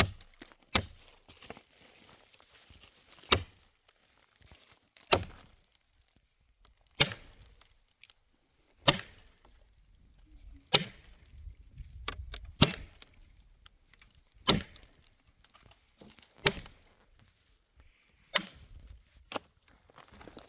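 Wood being chopped with an axe: about a dozen sharp strikes, mostly about two seconds apart.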